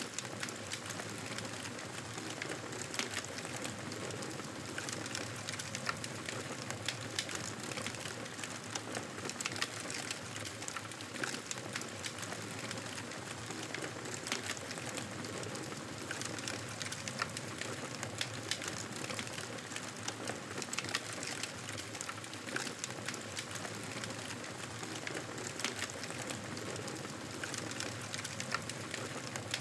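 Campfire burning: a steady hiss with frequent irregular sharp crackles and pops from the burning wood.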